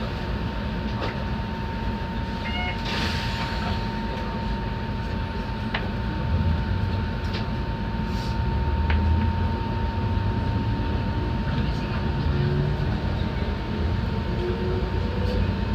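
Enoshima Electric Railway (Enoden) train heard from inside near the front: a steady rumble of wheels and motors under a constant high hum. It grows louder about six seconds in as the train gathers speed, with a few short clicks.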